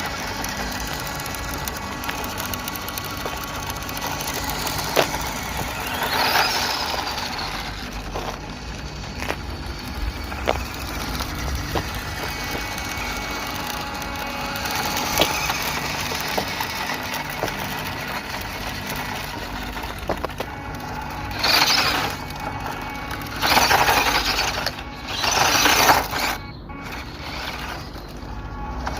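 WPL D12 1:10 RC drift truck driving, its small electric motor and gearbox whining steadily. Several short louder bursts of the rear tyres spinning and scrabbling on loose dirt come mostly in the last third, as it powers into slides and donuts.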